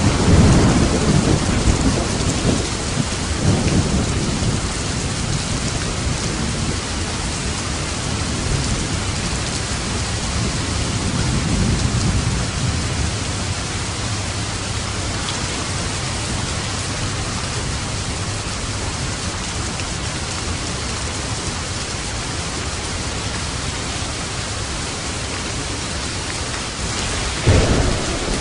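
Steady heavy rain with rolling thunder. A loud thunder rumble opens, further rumbles come at about four seconds and about twelve seconds, and a sharper, sudden clap comes near the end.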